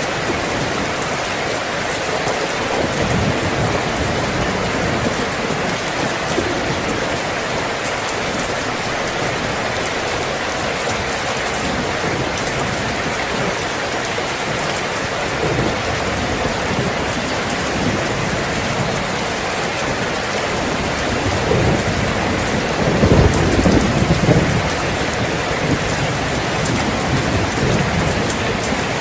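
Steady rain falling, with a low roll of thunder swelling and fading about three-quarters of the way through.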